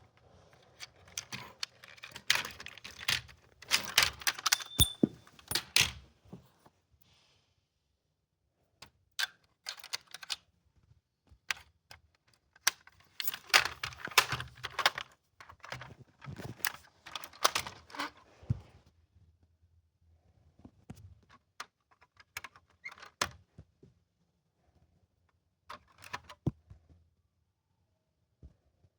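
Small hard objects clicking and clattering as they are handled, in bursts of rapid clicks with quiet gaps between them.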